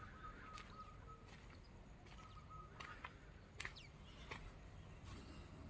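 Near silence: faint outdoor ambience with a few brief, faint bird chirps.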